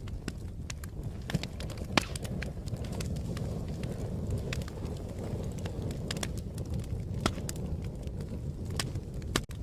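Fire crackling: irregular sharp pops and snaps over a steady low rumble of burning, with louder pops about two seconds in and again near the seven-second mark.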